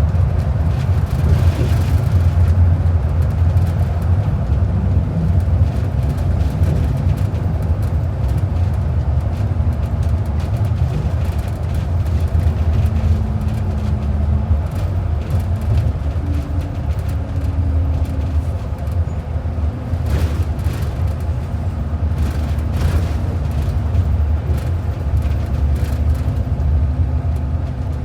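Transit bus under way, heard from inside the cabin: a steady low engine and road rumble, with the engine note shifting up and down a little a few times as the bus changes speed.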